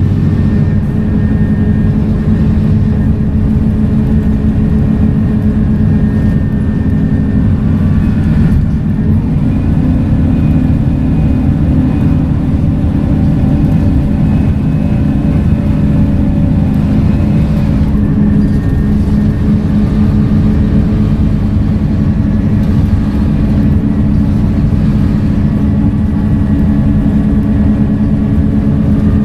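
Scania K230UB single-deck bus running under way, its five-cylinder diesel engine and ZF automatic gearbox giving a steady hum. The engine note shifts about a third and two thirds of the way through.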